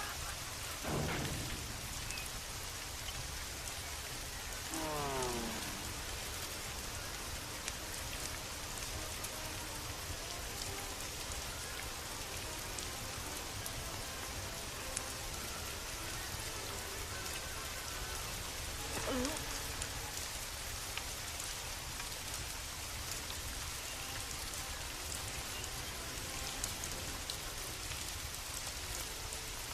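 Steady rain falling, an even hiss with fine patters of drops. Three times a brief pitched sound falls in pitch over it: about a second in, about five seconds in, and about two-thirds of the way through.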